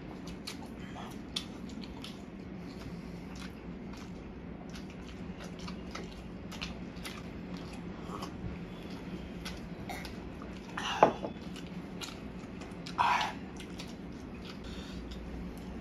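Close-miked eating: people chewing rice and chicken eaten by hand, with many small wet mouth clicks over a steady low hum. Two louder short sounds come about eleven and thirteen seconds in.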